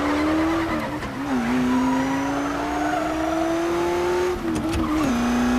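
Race car engine accelerating hard through the gears, its pitch climbing steadily and dropping at two upshifts, about a second in and near the end.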